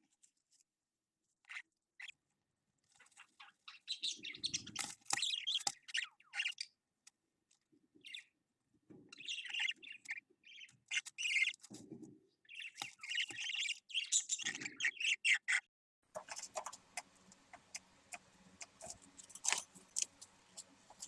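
Budgerigar chicks chirping in scratchy bursts of a second or two, some with a lower throaty sound under them. Near the end the chirping gives way to a steady low hum with scattered clicks.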